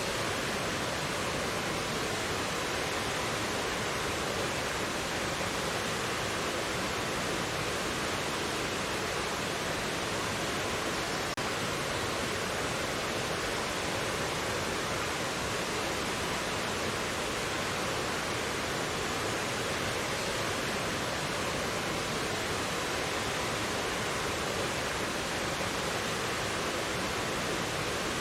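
Valley stream water rushing with a constant, even sound that holds steady throughout.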